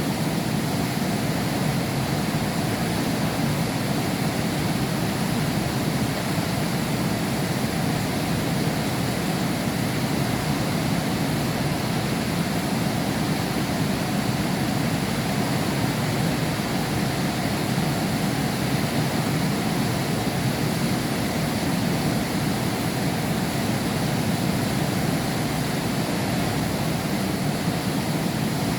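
Heavy rain falling in a steady downpour, heard as a constant even rush with no separate drops or thunder standing out.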